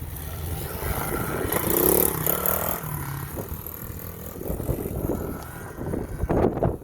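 SSR 110 pit bike's small single-cylinder four-stroke engine running, rising in pitch and growing louder about two seconds in, then easing back.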